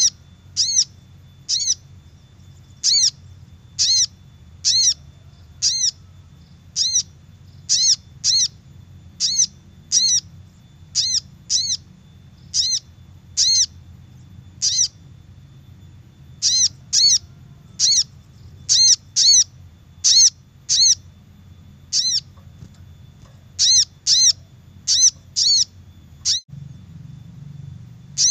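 Sogok ontong (sogon) lure call: short, high chirps, each arching down in pitch, repeated about once or twice a second and sometimes in quick pairs, with a brief pause about halfway. A faint steady low hum runs beneath.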